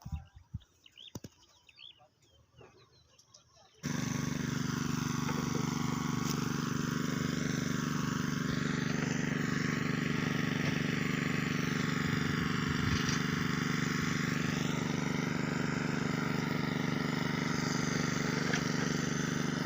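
Near quiet with a few faint chirps, then about four seconds in a diesel excavator engine cuts in at full level and runs steadily, with a higher whine that drifts slowly up and down over it.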